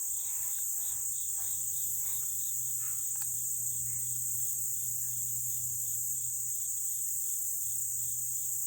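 Chorus of summer insects: a steady high-pitched buzz with a softer chirping pulse beneath it, repeating about three times a second.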